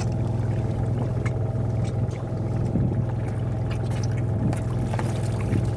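Fishing boat's engine running with a steady low drone, with a few scattered light knocks and faint voices underneath.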